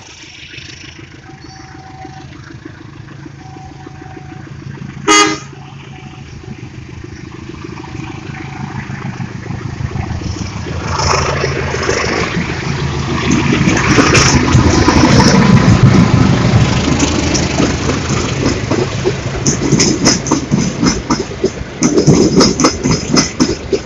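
A CC201 diesel-electric locomotive approaching and passing with a passenger train: its engine hum grows from about ten seconds in to a loud pass, followed by rhythmic wheel clatter as the coaches roll by near the end. One short, loud horn toot about five seconds in.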